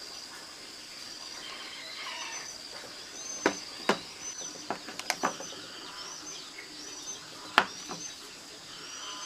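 Small birds chirping in short, repeated high calls, with a few sharp knocks that stand out as the loudest sounds: a pair about three and a half to four seconds in, two close together around five seconds, and one more about seven and a half seconds in.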